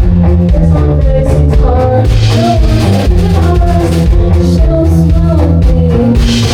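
Live rock band playing: distorted electric guitar, bass and drum kit, loud and steady.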